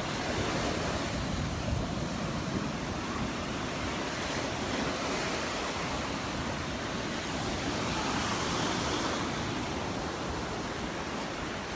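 Gulf surf breaking and washing onto the beach, an even rushing hiss that swells and eases, with some wind on the microphone.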